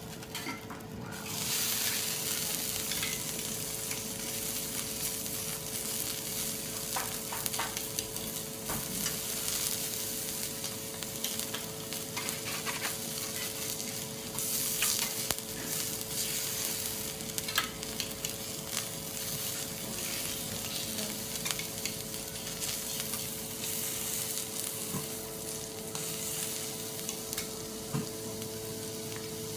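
Shrimp and scallop sizzling on a hot teppanyaki steel griddle, a continuous frying hiss. Scattered short clicks of the chef's metal spatula and knife tapping and scraping on the griddle.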